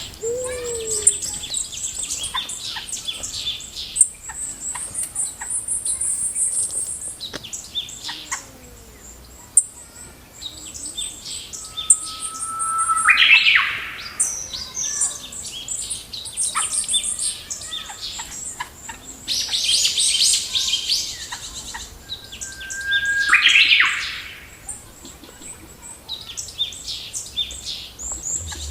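Several wild birds chirping and trilling in trees, with two louder calls about ten seconds apart, each a held note that breaks into a harsh rising burst.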